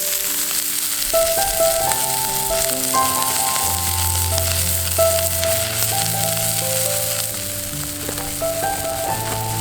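Steak sizzling as it cooks over a fire, a steady frying hiss, under background music with a slow melody and bass notes.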